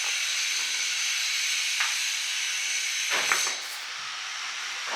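A steady hiss. A short click comes just under two seconds in, and a brief louder rubbing sound around three seconds in, after which the hiss is a little quieter.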